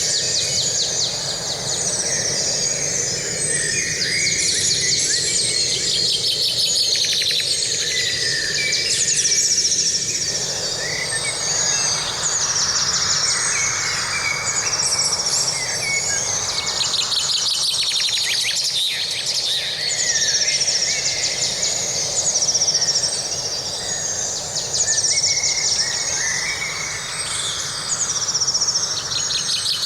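Several forest birds singing and calling together, with many short chirps and fast trills overlapping throughout, over a steady rushing background.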